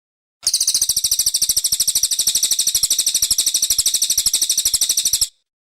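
Brown cililin bird singing one rapid, high, dry trill of about fourteen notes a second, held evenly for nearly five seconds; it starts and stops abruptly.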